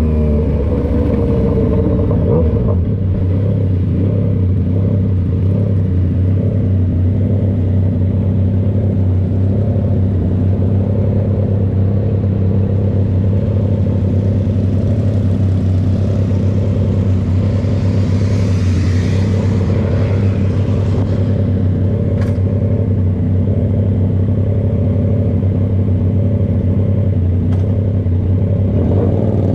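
Yamaha XSR motorcycle with an SC-Project exhaust running at a steady engine speed, its exhaust note holding one even pitch, with a brief rush of hiss about two-thirds of the way through.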